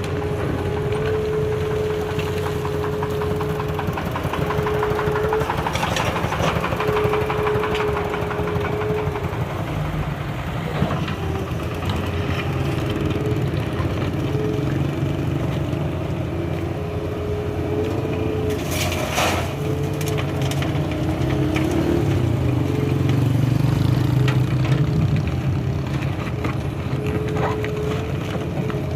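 Diesel engine of a large hydraulic excavator running steadily under work, with a droning tone that wavers slightly. A few sharp knocks and clanks come through, the clearest about a third of the way in and again about two-thirds in.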